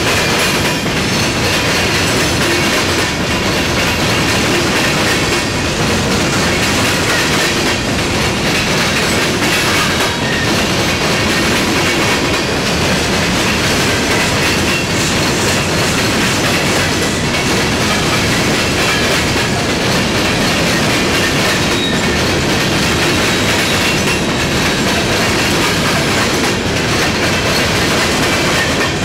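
Empty coke hopper cars rolling past, their steel wheels clattering steadily over the rail joints and diamond crossings in a loud, continuous clickety-clack.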